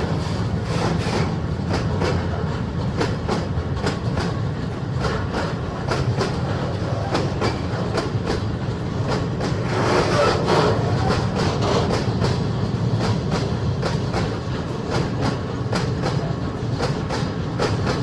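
Train rolling past, its wheels clicking steadily over the rail joints over a low rumble, a little louder about ten seconds in.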